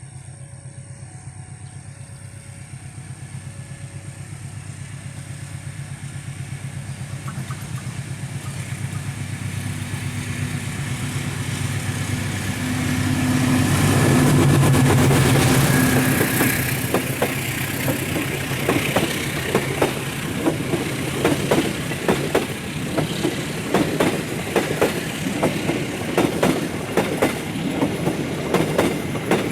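Passenger train passing: the diesel locomotive's engine hum grows louder and peaks about halfway through as it goes by. Then the carriages' wheels clatter over the rail joints in a steady rhythm.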